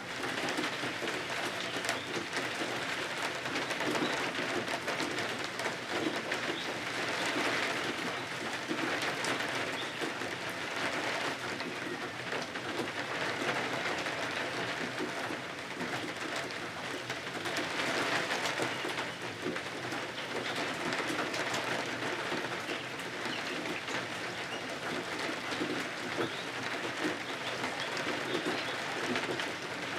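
Steady rain pattering, a dense spray of fine drops that swells and eases a little in waves.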